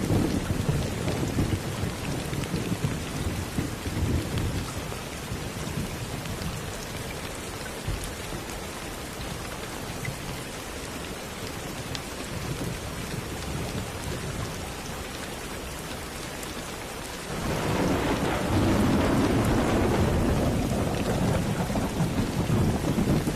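Steady rain with thunder. A rumble dies away over the first few seconds, then the rain carries on alone until a louder roll of thunder comes in about three quarters of the way through and rumbles on to the end.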